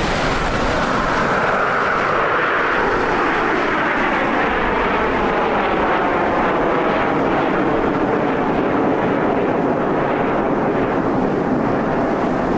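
Aermacchi MB-339 jet trainers with Rolls-Royce Viper turbojets flying past. The jet noise is steady and loud, with a pitch that sweeps steadily downward through the first half as the aircraft pass.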